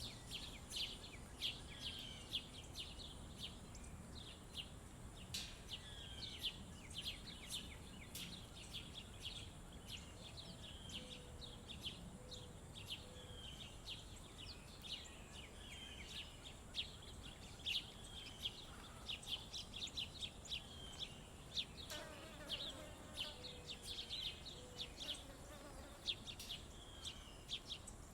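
Many small birds chirping rapidly and continuously at a feeder, over a thin, steady high whine. Twice, a bird gives a short series of a few low, evenly spaced notes.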